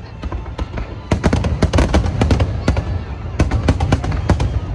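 Large aerial fireworks display: shells bursting in rapid succession over a constant low rumble, sparse for about the first second and then a dense barrage of sharp bangs and crackles several times a second.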